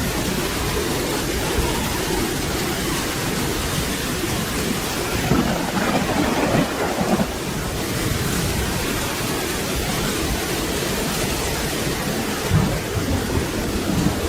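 Steady rain falling, with low rolling thunder that swells twice: once around the middle and again near the end.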